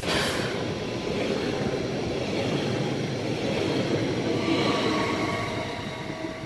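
Stadler Flirt electric multiple unit rolling past along the platform and pulling away: steady wheel and running noise with a faint motor whine, fading over the last second or so as the train draws off. A short sharp crack comes right at the start.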